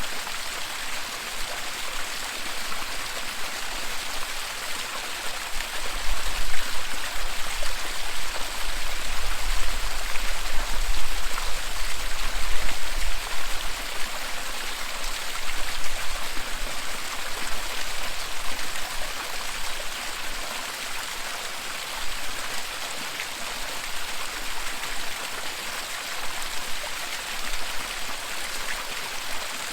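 Waterfall rushing steadily, an even hiss of falling water. A deep low rumble swells in about six seconds in and fades again by about fourteen seconds.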